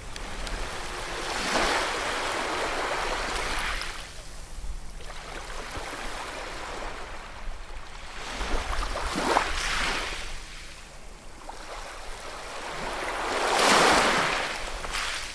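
Sea waves breaking. The hiss of the surf swells and fades in three surges, with the loudest near the end.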